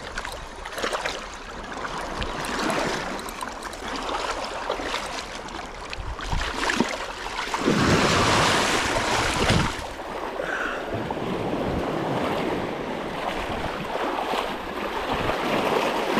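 Sea waves washing in, with wind buffeting the microphone; a bigger wave surges about eight seconds in.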